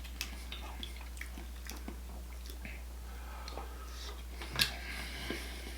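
Close-miked eating sounds of mussels in garlic butter sauce being chewed, with scattered small wet clicks and smacks and one sharper click about four and a half seconds in.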